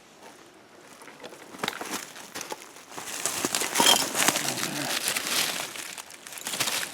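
Irregular rustling and crunching of dry debris being stirred, with scattered small clicks, faint at first and louder from about three seconds in.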